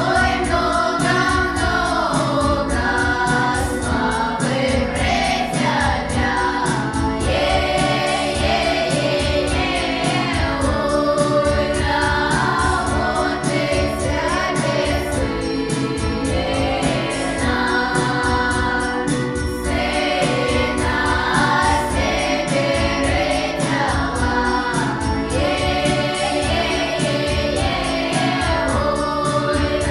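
Choir singing a song over instrumental accompaniment with a steady beat.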